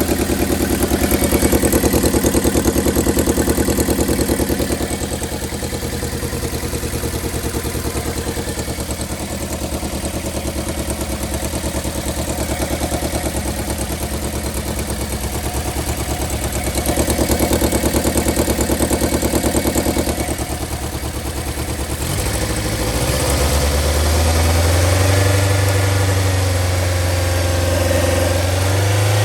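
Toyota 4A-FE 1.6-litre inline-four engine running with a misfire, which the owner puts down to a blown head gasket. The running has a dense, even pulse that swells twice, then about three quarters of the way through it shifts to a steadier, rising hum.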